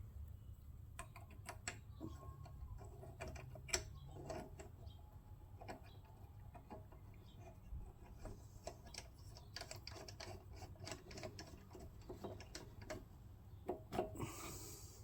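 Faint, irregular small clicks and taps of parts being handled and fitted back onto a small Honda engine's carburettor, over a low steady hum, with a short hiss near the end.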